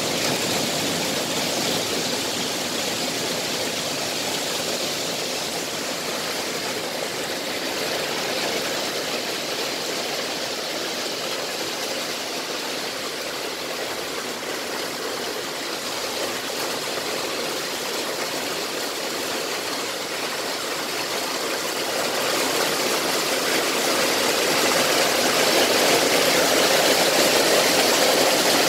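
Heavy rain pouring down onto a flooded flat rooftop and a wet street: a steady hiss that grows louder over the last several seconds.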